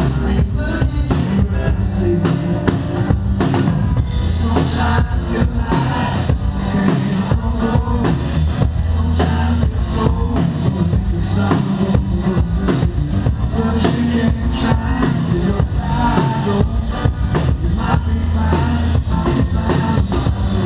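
Live rock band playing an instrumental passage, with a drum kit keeping a steady beat over bass and guitar.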